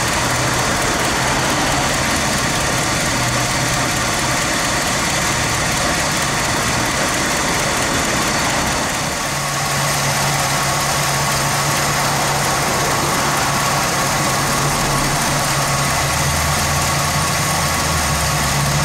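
Ford 390 V8 engine of a 1969 Country Squire idling steadily, heard up close with the hood open. There is a brief dip in loudness about nine seconds in, after which the low hum is stronger.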